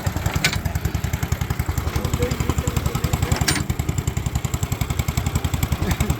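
Small Case engine mounted on a Case hay press, running steadily with a rapid, even beat as it drives the press. A sharp clank sounds twice, about three seconds apart.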